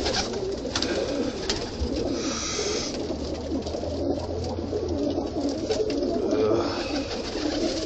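Domestic pigeons cooing in a coop, a steady overlapping chorus of low warbling coos, with a few sharp clicks in the first couple of seconds.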